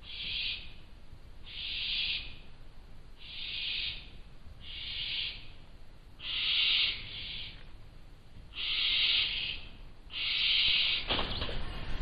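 Barn owl chicks giving their hissing, snore-like begging calls, about seven harsh hisses each lasting under a second, repeated roughly every one and a half seconds. Near the end comes a brief knock or scrape.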